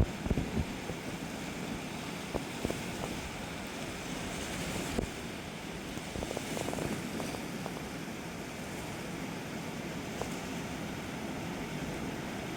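Steady rushing noise of the flooded, swollen Khersan River, with a few light knocks near the start.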